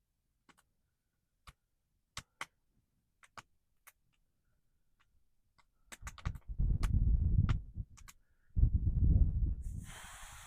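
Campfire crackling with sparse, sharp pops from wet wood. From about six seconds in, two long low rumbles of wind gusting against the microphone cover it, the second ending in a brief hiss.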